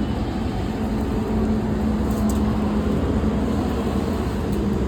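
A steady low mechanical hum with a constant rumble underneath, unchanging in level.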